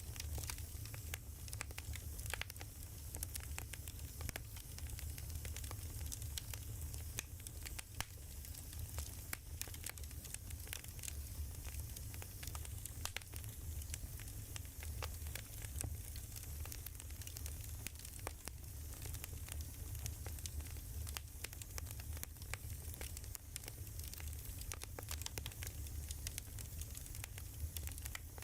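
Wood fire crackling: a steady, irregular run of small pops and snaps over a low rumble.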